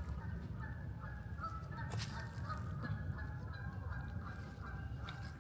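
A flock of birds calling in many short, overlapping honks, over a steady low rumble, with a single sharp click about two seconds in.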